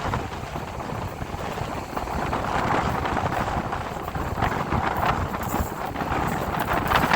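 Strong wind buffeting the microphone: a loud, uneven rumble with hiss, and no clear single event.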